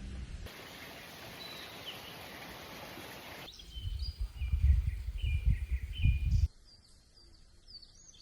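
Small birds chirping in short calls over ambient sound that changes twice: first a steady hiss, then loud irregular low rumbling gusts, and near the end a quiet stretch with only faint calls.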